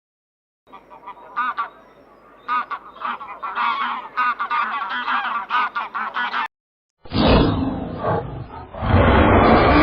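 Many short, rapid honking calls from a group of birds, overlapping. They cut off abruptly, and after a brief silence a louder, rougher animal sound starts and grows loudest near the end.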